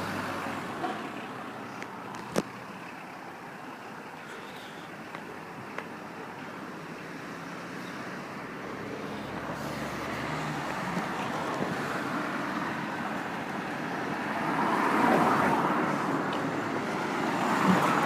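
Road traffic going past, a steady wash of tyre and engine noise, with one vehicle passing louder about fifteen seconds in.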